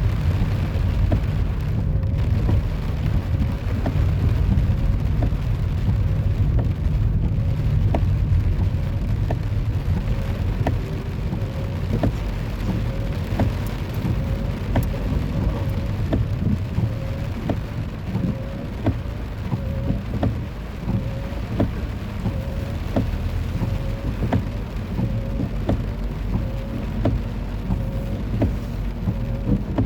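Steady rain, with many scattered raindrop ticks over a continuous low rumble.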